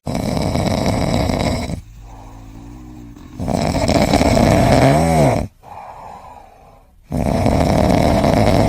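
A pet snoring: three long, loud snores a few seconds apart, with quieter breaths between them.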